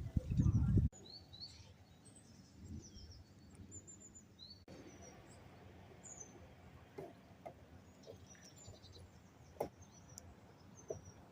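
Small birds chirping with short, high calls scattered over a quiet outdoor background. A loud low rumble fills the first second and ends abruptly, and there is a single faint knock near the end.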